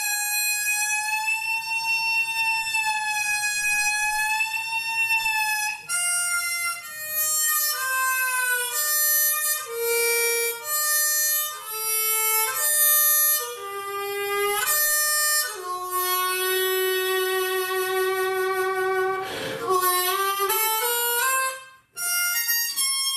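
A single melodic instrument playing a slow improvised lament, one note at a time. It opens on a long, slightly wavering held high note, moves into short stepped notes that fall in pitch, and settles on a long low note. There is a short break near the end before a high note comes back in.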